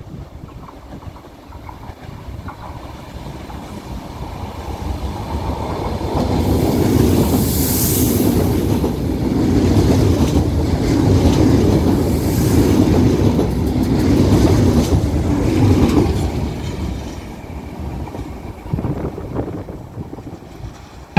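Two coupled Renfe Class 448 electric multiple units passing through a station without stopping: the sound builds as the train approaches, stays loud for about ten seconds as the cars go by with wheel and rail noise, then fades as the train moves away.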